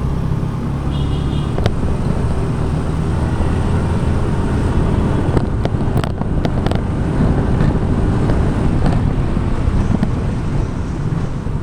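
Motor scooter riding along: the small engine runs steadily under road and wind noise, with a few short knocks around the middle.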